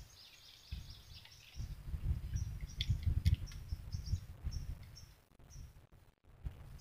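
Birds chirping in short, high, repeated calls over a low, uneven rumble, with a few sharp clicks about three seconds in.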